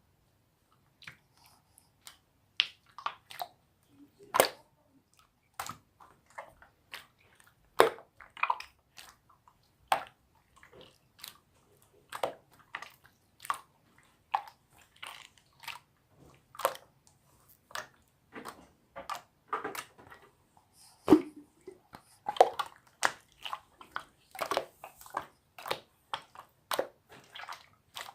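Slime being squeezed and pressed by hand, giving irregular short pops and clicks, a few every couple of seconds.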